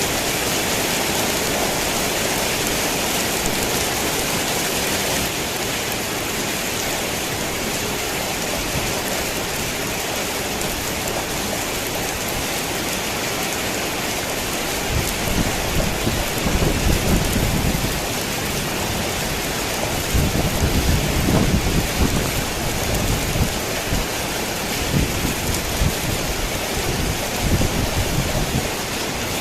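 Rain pattering steadily on a tin roof. Low thunder rumbles in about halfway through and rolls again, on and off, for several seconds later on.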